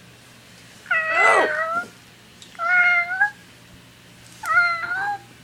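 House cat meowing three times, each meow under a second long, spaced evenly about a second and a half apart.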